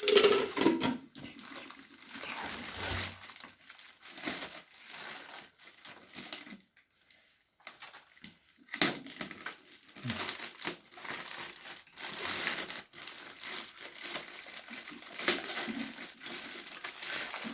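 Packaging crinkling and rustling in irregular bursts as a boxed mixer grinder is unwrapped, with a short quiet pause about seven seconds in.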